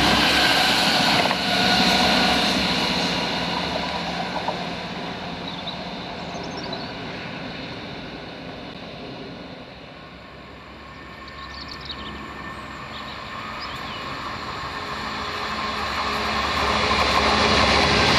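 Chiltern Railways diesel multiple unit passing close at speed, its engine and wheel noise fading away over the first several seconds. Then another Chiltern diesel unit approaches and grows steadily louder towards the end as it runs through.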